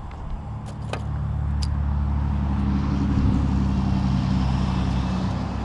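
A motor engine running steadily, growing louder over the first couple of seconds and then holding. A few light metallic clicks sound in the first second or two.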